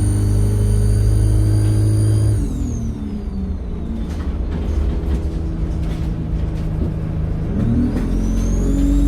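Alexander Dennis Enviro 200 bus engine pulling with a loud, high turbo whistle; after about two seconds the throttle comes off and the whistle falls in pitch as the turbo spools down while the engine drops back. Near the end the engine picks up again and the whistle climbs back up as the turbo spools.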